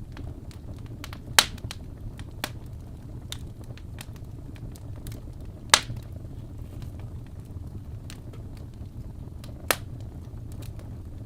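Fire crackling in a fireplace: a steady low rumble of flames with scattered small crackles and three sharp, loud pops about a second and a half, five and a half, and nine and a half seconds in.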